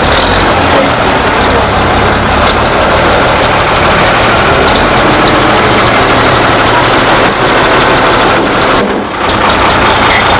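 Loud, steady engine noise of a tractor-pulling machine running, with a brief dip about nine seconds in.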